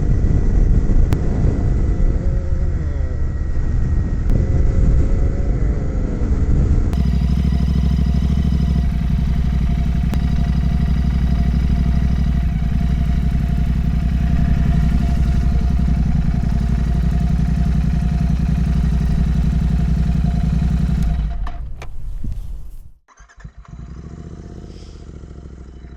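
Royal Enfield motorcycle engine and wind noise while riding, uneven for the first several seconds and then a steady cruise. About three-quarters of the way in the sound falls away abruptly, leaving a much quieter low hum.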